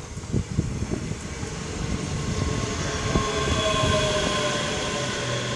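Class 385 electric multiple unit moving slowly at the platform: low rumble of wheels and running gear with irregular knocks, and from about halfway a faint whine that falls a little in pitch.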